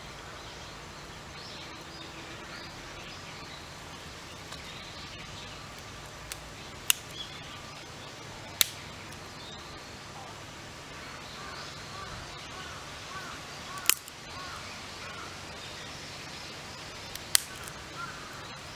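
Small twig fire in a Firebox Nano stove giving four sharp, isolated pops several seconds apart over a steady low hiss, with faint birds chirping.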